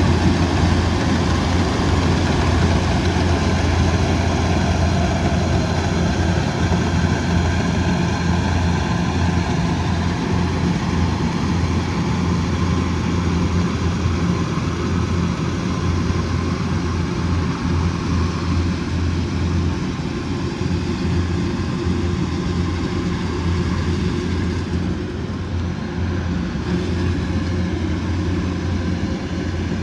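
Kubota combine harvester's diesel engine running steadily with a constant low drone. The higher mechanical hiss over it eases off somewhat over the last third.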